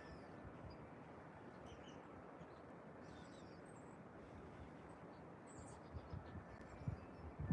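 Faint birds chirping in the distance, scattered short calls over a steady outdoor hiss, with a few soft low bumps near the end.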